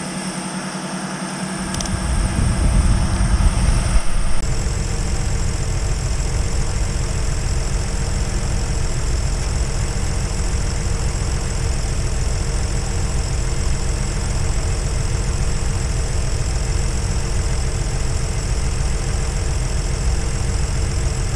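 2011 Ford Explorer's engine idling steadily under the open hood, with a heavier low rumble for a couple of seconds near the start.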